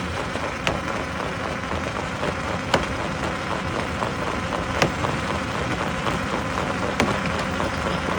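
Stone crusher running: a steady, dense clatter and grind of rock and machinery, with a sharp knock about every two seconds.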